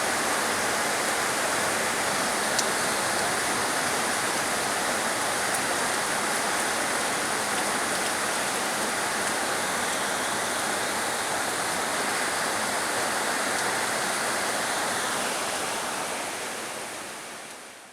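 Heavy rain falling steadily, a dense even hiss, fading out over the last few seconds.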